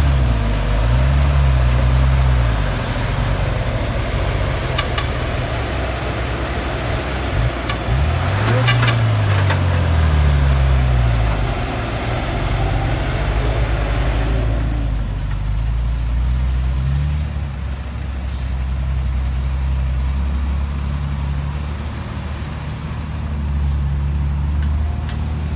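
Cat 312B L excavator's diesel engine working under load, its pitch rising and falling as the digging cycle loads it, with a few sharp knocks. About fifteen seconds in it settles to a steadier, lower running.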